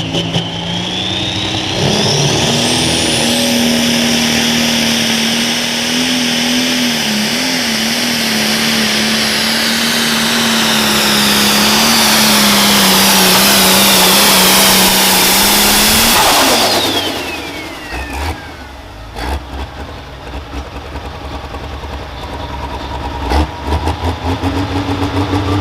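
Pro stock pulling tractor's turbocharged diesel engine running flat out down the track, its steady note held under a loud high turbo whine that builds for about fourteen seconds. It then backs off sharply, the whine falling away as the pull ends, leaving a quieter engine note with a few knocks.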